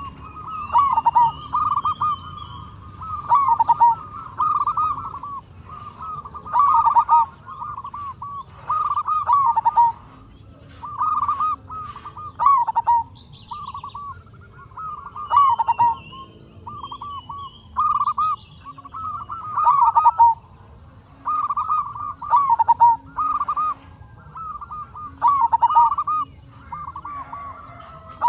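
Zebra dove (perkutut) singing: short phrases of rapid, warbling cooing notes, repeated every one to two seconds.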